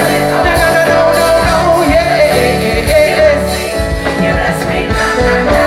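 Live band playing an upbeat gospel song at full volume, with a steady drum beat, sustained keyboard chords and a sung vocal line.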